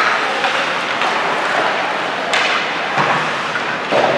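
Ice hockey arena noise during play: a steady hiss with two sharp knocks, one a little over two seconds in and one near the end.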